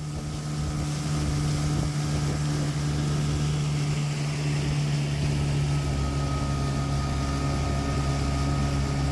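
Boat outboard motor running steadily at an even speed, a constant hum with a low rumble and hiss.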